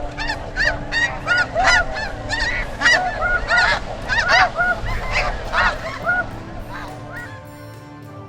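A flock of Canada geese honking, many short overlapping calls a few each second, thinning out and fading after about six seconds.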